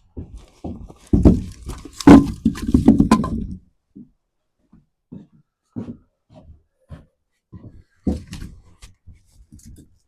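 Scattered dull thumps and knocks, with a louder run of bumping and clattering from about one to three and a half seconds in.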